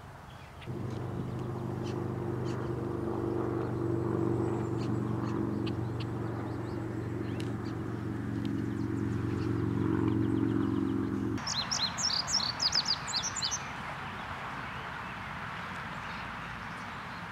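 Small birds chirping over a steady low motor hum that lasts about ten seconds and then cuts off. Just after the hum stops, a quick run of loud, high chirps follows for about two seconds over a steady hiss.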